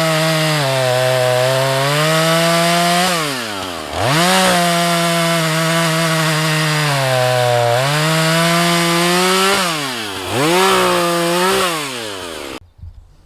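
Husqvarna 435 two-stroke chainsaw cutting wood at full throttle in three stretches. The engine pitch sags while the chain is under load, and the revs drop back between cuts. The sound stops suddenly near the end.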